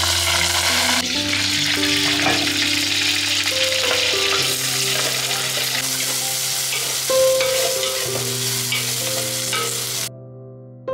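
Hot oil sizzling steadily as curry leaves, green chillies and chopped onions fry in a clay pot and are stirred with a wooden spatula. The sizzling cuts off abruptly about a second before the end, leaving soft background music.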